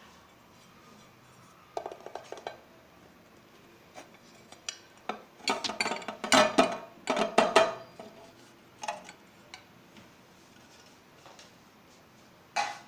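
Metal cake tin and plate clinking and clattering as a freshly baked chocolate cake is turned out of its tin onto a plate: a few light clinks, then a dense run of loud knocks and rattles in the middle, and one sharp knock near the end.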